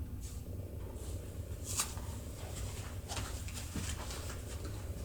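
Felt-tip marker drawn over paper in a handful of short scratchy strokes, tracing around the edge of a paper leaf, over a low steady hum.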